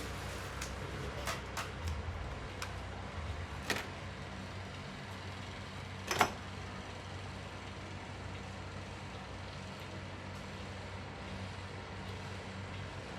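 Small clicks and taps from clock parts being handled on a workbench, with one louder knock about six seconds in, over a steady low background hum.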